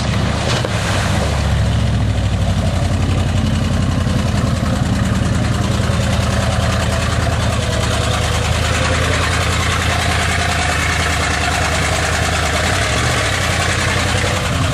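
GMC pickup's 400 small-block V8 running steadily under load as the truck drives through a mud hole, over a dense hiss of churning water and spray.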